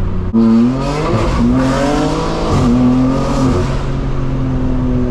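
Straight-piped BMW M4 Competition twin-turbo inline-six accelerating. About a third of a second in it gets suddenly louder and climbs in pitch. The pitch breaks briefly about two and a half seconds in, then the engine settles into a steady drone.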